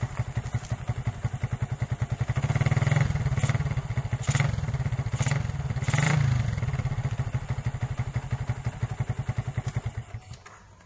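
Yamaha Vixion's single-cylinder four-stroke engine running through a Suzuki Satria F exhaust: idling with a rapid, even putter, blipped with a few short throttle revs in the middle, then dying away near the end.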